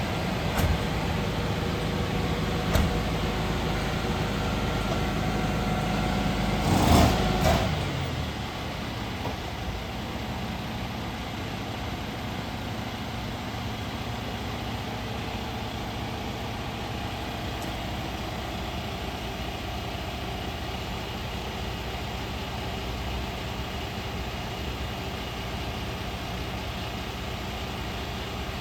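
Refuse truck engine running steadily, with a louder rushing noise lasting about a second around seven seconds in. After that it settles to a slightly quieter, even running.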